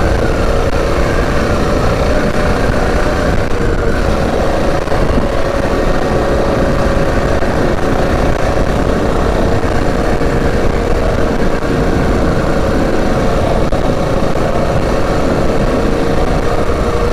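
Predator 212 single-cylinder four-stroke engine on a mini bike running at a steady cruising speed, its tone wavering slightly in the first few seconds, under heavy wind buffeting on the helmet-mounted microphone.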